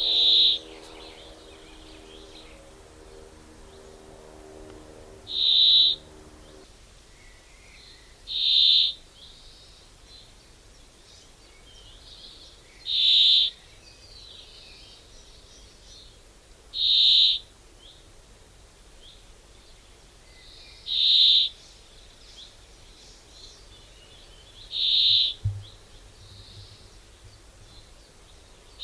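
A bird calling: a short, high single note repeated about every four seconds, over faint outdoor background. A low steady hum sits under the calls for the first six seconds or so and stops suddenly, and there is a soft low thump near the end.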